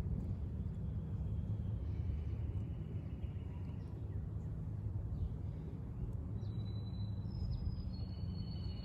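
Outdoor ambience: a steady low rumble with a few faint, thin, level high-pitched whistles, one about a second in and more in the second half.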